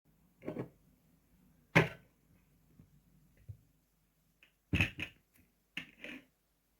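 A few short knocks and clicks: one about half a second in, a sharp louder one just before two seconds, and a quicker cluster of them near the end.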